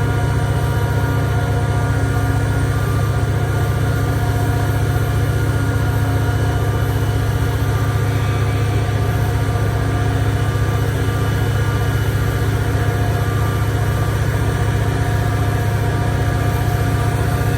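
EMD SD40-2 diesel-electric locomotive's turbocharged two-stroke V16 engine running steadily under load, a loud low rumble with steady tones above it, as it works to start a train too heavy for it.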